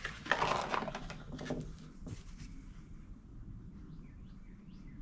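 Rustling and handling noise over the first two seconds, then faint short high chirps.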